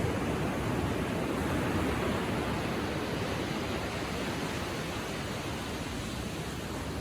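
Gentle ocean waves washing onto the shore: a steady rushing hiss that swells a little in the first few seconds and eases slightly toward the end.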